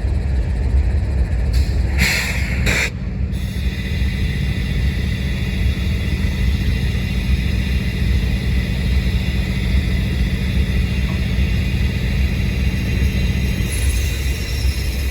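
Union Pacific intermodal freight train passing close by: a steady, loud rumble of diesel locomotives and wheels on the rails. Brief rushing noises come about two seconds in and again near the end.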